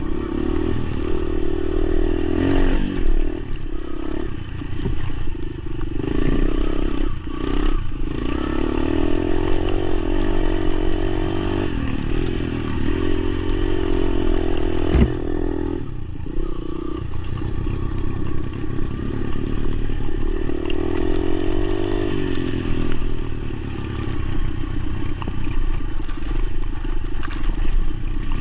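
Motorcycle engine running under way, its note rising and falling.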